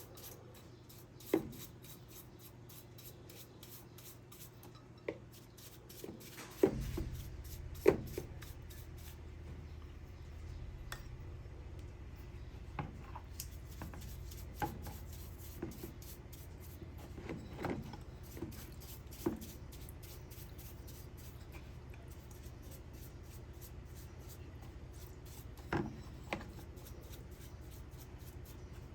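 Scattered clicks, knocks and rubbing of parts and tools being handled on a workbench during small-engine carburetor work. A low steady hum comes in about seven seconds in.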